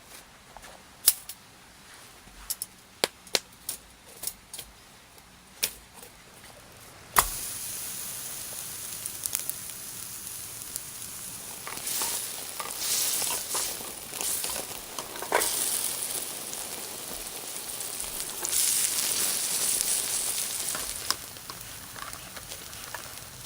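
Meat sizzling over a campfire. About seven seconds in, a sudden onset starts a steady sizzle that keeps going and swells louder several times. Before it there are only scattered sharp clicks.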